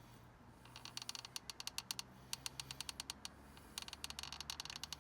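Rapid runs of sharp mechanical clicks, several a second, in two bursts with a short pause about three seconds in.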